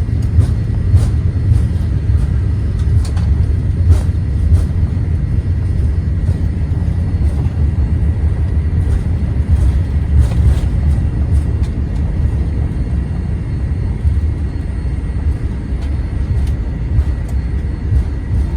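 Steady low rumble inside the cabin of a Boeing 787-9 airliner, with scattered brief knocks.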